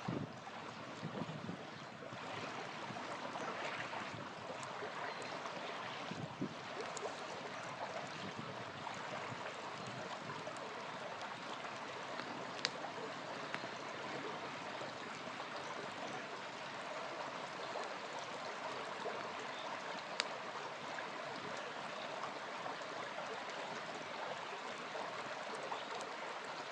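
A small river's flowing water, a steady rushing babble, with a few sharp pops from a crackling campfire.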